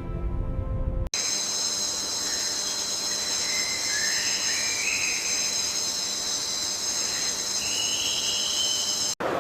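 Steady high-pitched insect chorus, like crickets, in several even bands, with a few faint chirps over it. Music stops with a sudden cut about a second in, and near the end another cut gives way to rushing water.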